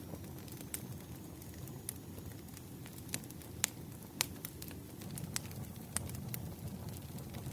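Wood fire crackling: a steady low rumble with irregular sharp pops and snaps, a couple of them louder about halfway through.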